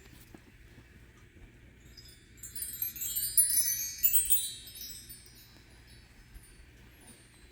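A flurry of many high, bright metallic chime tones about two and a half seconds in, ringing and fading out over roughly two and a half seconds.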